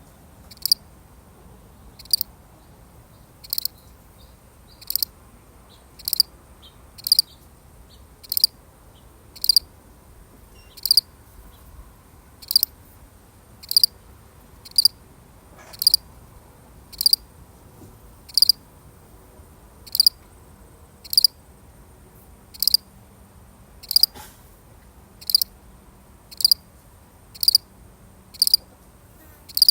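A single cricket chirping: short, high-pitched chirps repeated evenly, a little less than once a second.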